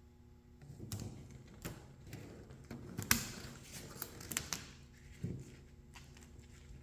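Objects being handled by hand: a series of irregular taps and knocks, the loudest about three seconds in, over a faint steady hum.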